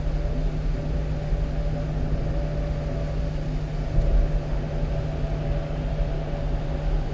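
Steady in-cab drone of a one-ton truck driving: low engine hum with road noise, and a faint tick about four seconds in.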